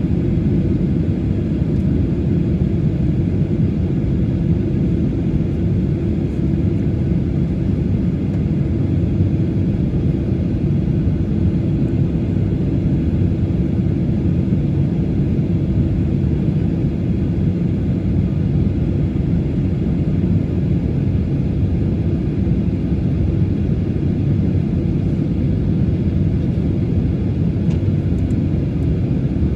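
Boeing 737-800's CFM56-7B jet engines idling on the ground, heard from inside the cabin: a steady low rumble with a steady hum.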